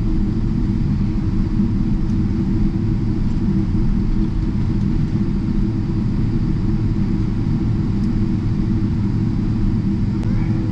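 Steady low rumble inside the cabin of a Boeing 777-300ER: engine and airframe noise holding at an even level.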